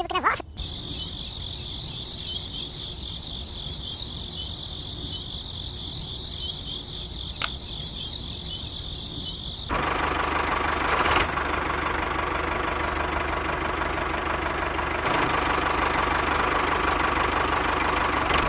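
Insects chirping in a steady high buzz over a low engine rumble; about ten seconds in it gives way suddenly to a louder, steady machine noise.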